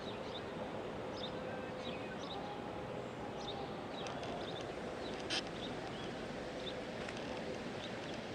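Steady rushing of canal water overflowing its bank and pouring down, with small birds chirping now and then. A single sharp click about five seconds in.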